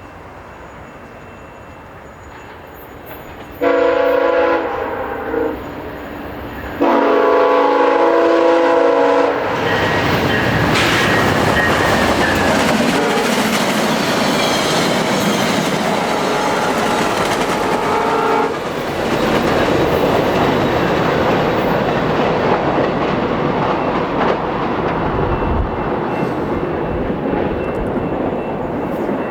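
VIA Rail passenger train passing at speed, its diesel locomotive horn sounding two long blasts and then a third a few seconds later. Under and after the horn comes loud, steady rushing wheel-and-rail noise with clickety-clack as the coaches go by.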